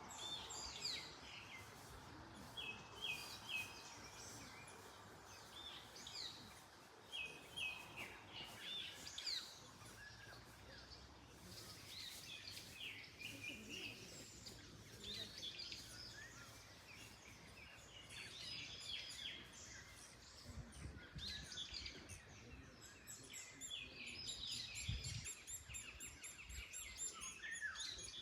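Several small birds chirping and singing in short repeated phrases, over a faint steady rustle of wind in trees.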